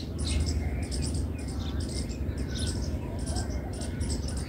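Small birds chirping busily, short high-pitched chirps coming several times a second, over a steady low rumble.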